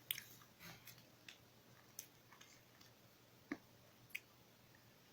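Faint chewing of a piece of candy: soft, scattered mouth clicks and smacks, a handful over a few seconds, otherwise near silence.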